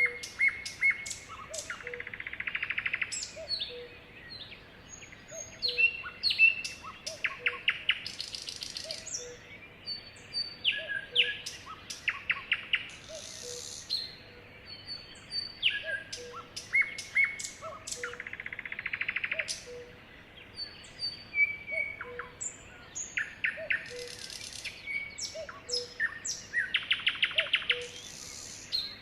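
Sparrows chirping and twittering continuously, short chirps mixed with rapid trills of notes.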